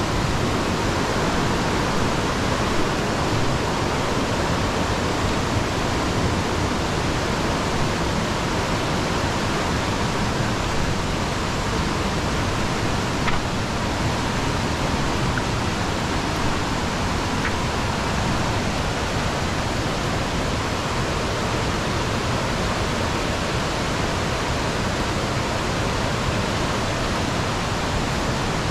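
Steady rush of falling water, even and unbroken throughout.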